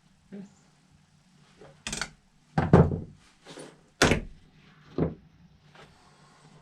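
A handful of separate hard knocks and clunks, the loudest about three seconds in, from carburetor parts being handled and set down on a workbench.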